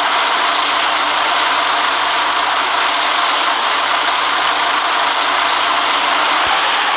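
City bus under way, a steady, even noise of its running.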